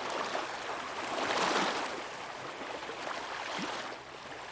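Shallow sea water at low tide lapping and splashing at the shore. The wash swells to a peak about one and a half seconds in and then eases off, with small splashes and trickles throughout.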